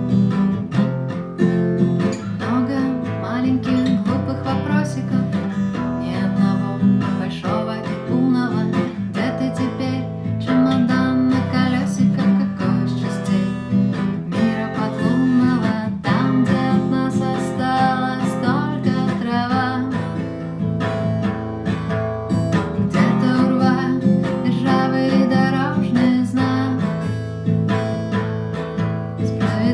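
Acoustic guitar being strummed, playing a song.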